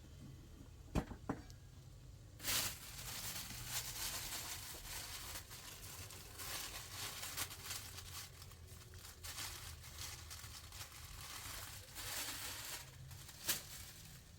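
Crinkling, rustling handling noise, as of plastic or sacking being crumpled or moved about, full of small crackles for most of the time. A couple of sharp knocks come about a second in and near the end.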